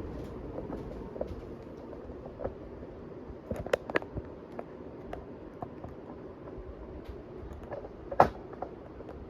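1982 Casablanca Panama ceiling fan running on high, a steady hum, with scattered sharp clicks and ticks, a cluster of them about halfway through and the loudest single click about eight seconds in.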